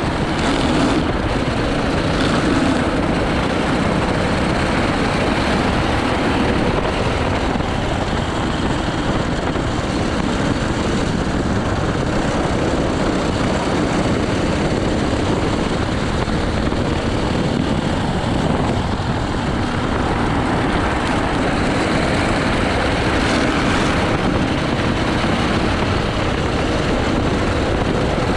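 80cc go-kart engine running hard through a timed practice lap, a steady loud drone mixed with wind and tyre noise.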